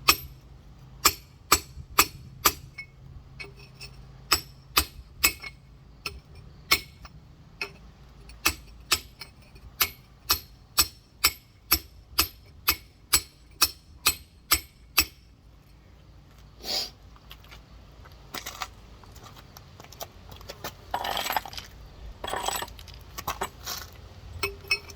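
Steel rock hammer tapping a geode, sharp ringing clinks about two a second as it scores a line to crack the stone. The tapping stops about 15 s in, then come a few single knocks and a short stretch of scraping and rattling.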